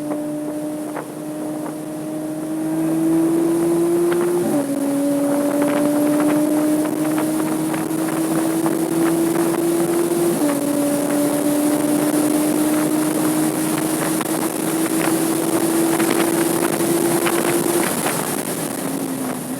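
Porsche 987.2 Cayman S 3.4-litre flat-six pulling hard at high revs under track acceleration, with two quick upshifts about four and ten seconds in, each dropping the engine note before it climbs again. The revs ease off near the end as the driver lifts. Wind and road noise run underneath.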